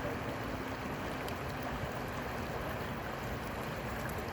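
Steady rush of flowing river water, with a faint low hum that fades out about halfway through.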